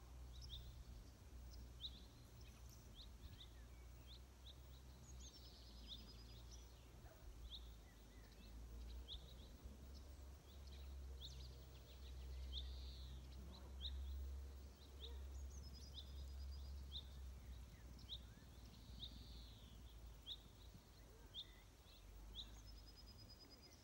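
Small songbirds calling faintly: a short high chirp repeated about once a second, and a brief trilled phrase three times, over a low rumble.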